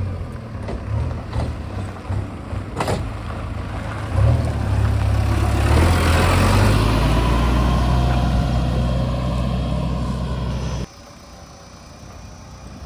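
Heavy vehicle's diesel engine running close by, swelling to its loudest about halfway through as it passes, with a sharp click about three seconds in. The sound drops abruptly near the end.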